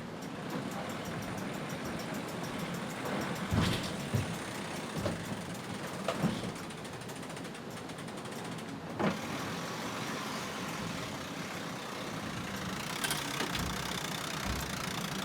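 Steady rushing noise aboard a racing sailboat, with a handful of sharp knocks and clunks from deck gear scattered through it.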